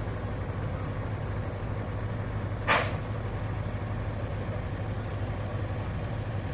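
Heavy diesel engine idling steadily, with one short, sharp hiss of released air about two and a half seconds in, like a truck's air brake.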